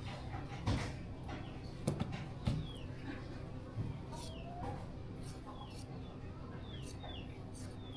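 A small bird chirping repeatedly in short, quick falling chirps, several in a row in the second half. A few sharp knocks come in the first few seconds, over a steady low background hum.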